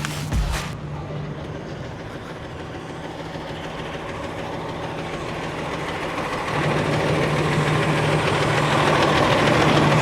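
Boom truck engine running steadily, getting louder about six and a half seconds in. A few knocks come right at the start.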